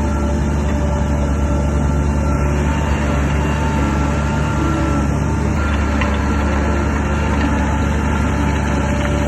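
Shantui DH17 bulldozer's diesel engine running steadily at an even level, with a steady whine over the low rumble.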